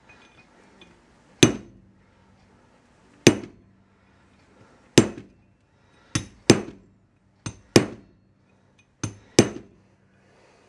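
Hammer tapping a small steel chisel against the old kingpin bushing in a Datsun truck spindle, walking it out of its bore a little at a time. About nine sharp metallic strikes, each ringing briefly, spaced a second or two apart and sometimes in quick pairs.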